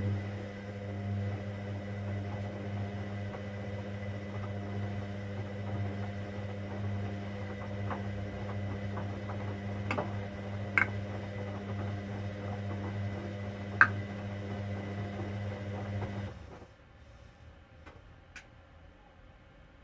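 Hoover Dynamic Next washing machine running mid-wash with a steady low hum and a few sharp clicks, then stopping abruptly about 16 seconds in.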